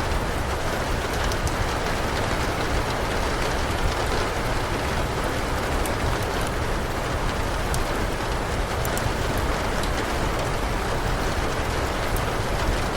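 Steady rain, with scattered small sharp crackles from a wood fire in the fireplace.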